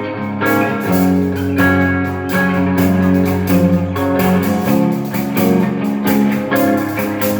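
Instrumental song intro: strummed guitar chords over a steady bass, with a regular beat.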